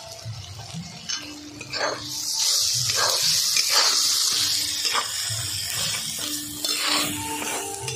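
Thick curry masala sizzling in an iron kadai while a flat metal spatula stirs and scrapes it, with several sharp scrapes against the pan; the sizzle grows louder about two seconds in.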